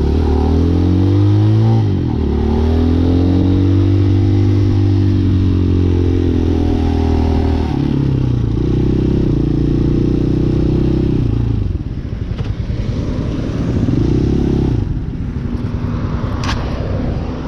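Hawk 250 motorcycle engine under way, its pitch climbing and dropping several times as it revs through the gears. About twelve seconds in it eases off to a quieter, uneven run with one more short rev, and a few sharp clicks come near the end.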